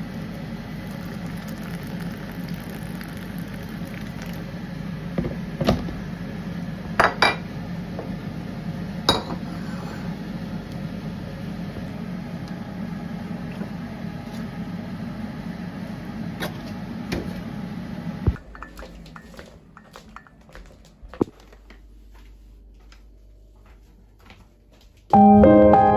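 A few sharp clinks and knocks of objects being handled over a steady low hum. About two thirds of the way through, the hum cuts out, leaving a quieter background with scattered faint clicks, and gentle piano music begins just before the end.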